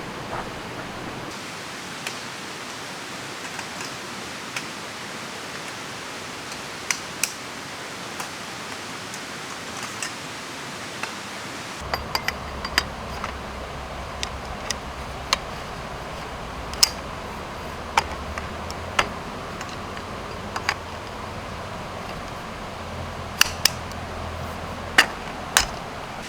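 Steady hiss of rain and a flowing river, with scattered sharp ticks and clicks at irregular intervals. The clicks come in clusters about 12 s in and near the end.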